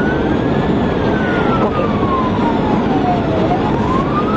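Police cruiser siren on a slow wail: one long fall in pitch, then rising again near the end, over loud engine and road noise from the cruiser driving at pursuit speed.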